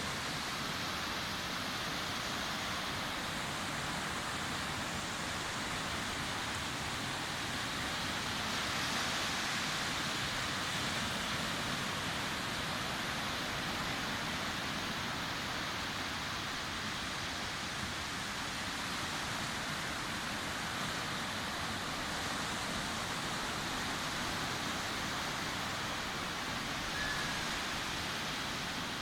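Sea waves breaking and washing onto a beach: a steady surf hiss that swells slightly about nine seconds in.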